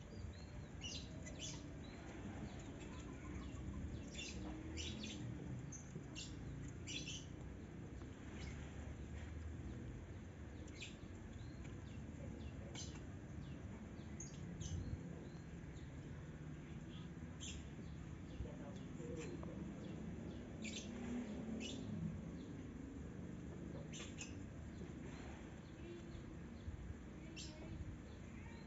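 Small birds chirping in short, scattered calls over a faint, low outdoor background rumble.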